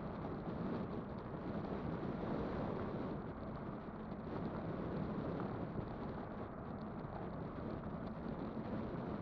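Steady rumbling noise of an electric bike being ridden: wind on the microphone and tyres running over the road surface.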